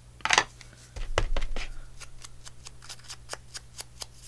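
A sharp rustle of paper being handled, then scissors snipping paper in quick short cuts, several a second.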